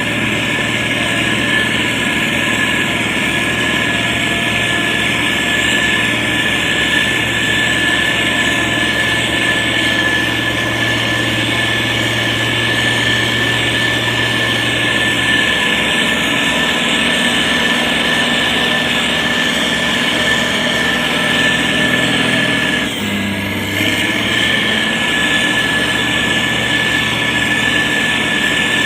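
SANY STG190C-8S motor grader's diesel engine running steadily, with a steady high-pitched whine over it; the sound dips and shifts briefly about three-quarters of the way through.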